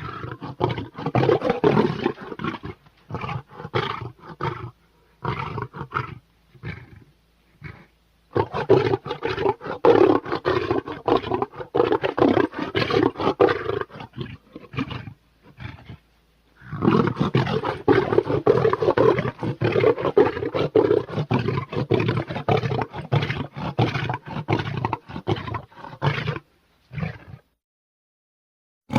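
Big-cat roars and snarls from tiger and sabertooth sound effects, voicing a creature in long rough runs broken by short pauses. They stop a couple of seconds before the end.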